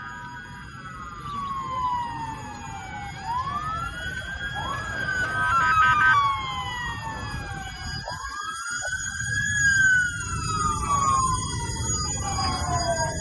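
Several emergency-vehicle sirens wailing at once, their rising and falling sweeps overlapping, over a steady low rumble.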